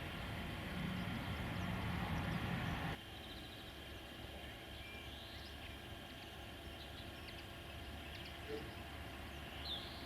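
A low, steady rumble with humming tones for about three seconds, which cuts off abruptly. It gives way to quiet outdoor background with a few short bird chirps.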